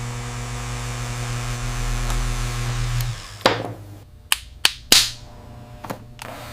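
A small electric motor runs with a steady hum for about three seconds and then stops, followed by several sharp clicks and knocks.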